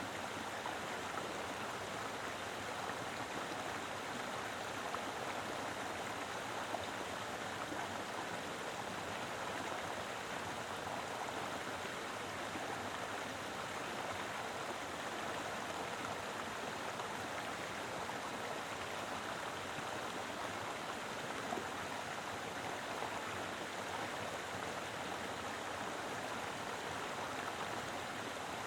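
Mountain river flowing steadily, a continuous rush of water over rocks.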